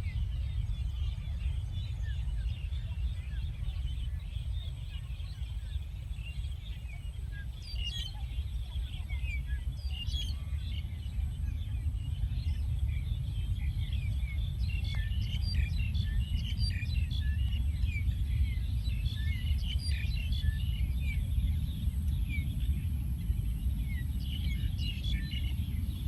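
Many small birds chirping in short, quick high notes, thickest from about a third of the way in, over a steady low rumble.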